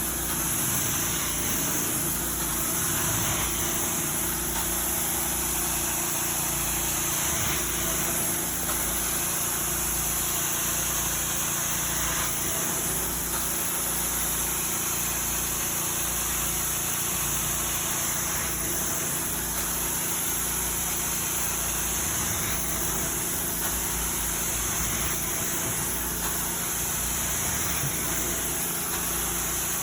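Carpet-cleaning vacuum machine running steadily: a constant low hum with a strong high hiss on top.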